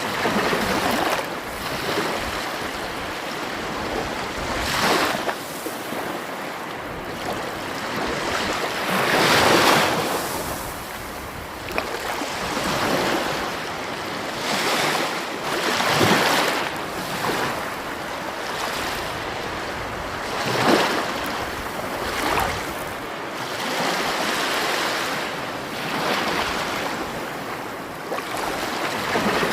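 Sea waves washing onto a shore: a continuous rush of surf that swells and falls back, with louder breakers about every few seconds.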